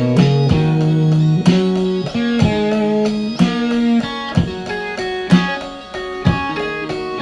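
Electric guitar playing slow, sustained notes, with a new note struck about once a second, in an ambient instrumental jam.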